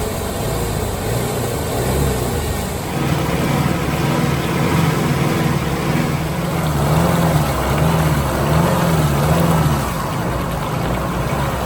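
Off-road vehicle engine running under load, its revs rising about three seconds in and then repeatedly swinging up and down, about once a second.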